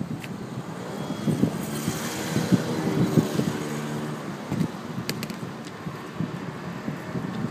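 Electric train running along the tracks: a low rumble with repeated clanks from the wheels and a steady whine that swells about two to four seconds in.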